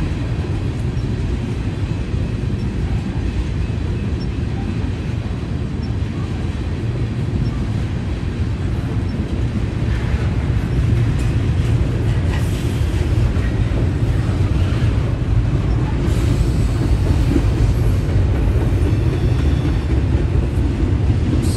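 Freight train rolling past: a steady low rumble of wheels on rail, growing slightly louder about halfway through.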